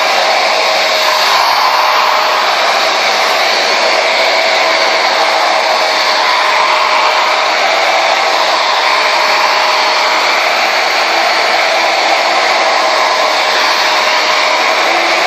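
Conair Yellow Bird 1875-watt blow dryer running steadily: a constant rush of air with a faint steady whine.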